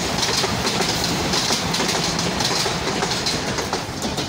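Nairobi Commuter Rail diesel multiple unit passing at speed close by, its wheels rushing along the track and clicking over rail joints. The rear car goes past near the end and the noise begins to ease.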